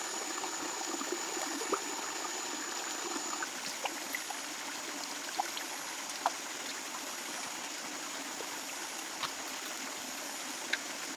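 Running water, a small stream trickling steadily, with a few faint scattered clicks. A thin, steady high tone sounds over it and stops about three seconds in.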